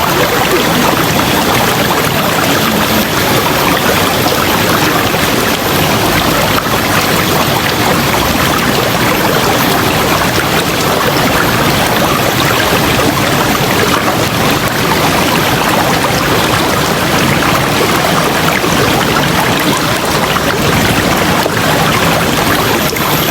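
River water rushing steadily, a constant even noise of flowing water.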